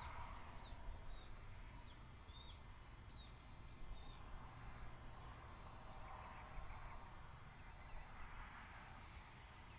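Faint bird calls: a quick run of short, high, downward chirps, thinning out after a few seconds and returning briefly near the end, over a steady low outdoor rumble.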